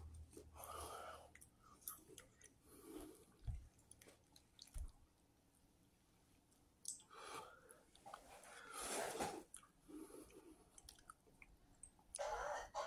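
A person chewing a mouthful of soft noodles close to the microphone. The chewing comes in faint, uneven bursts, with a quieter stretch midway and stronger bursts in the latter half.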